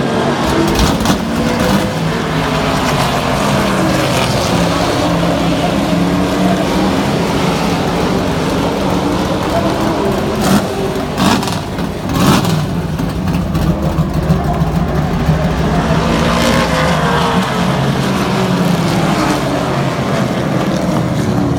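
Race trucks' engines running at speed around an oval track, their pitch rising and falling as they pass by. A few brief louder bursts come about halfway through.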